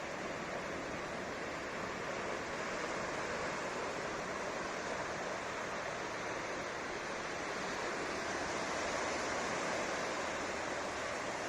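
Ocean surf breaking and washing up the beach: a steady rushing wash of waves that swells a little a couple of times.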